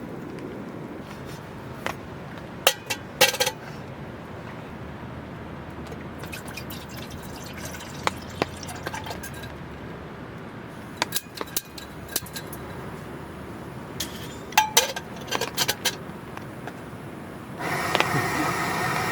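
Camp tableware clinking and knocking: scattered light clinks of cups and dishes being handled. Near the end comes about two seconds of a louder steady rushing sound.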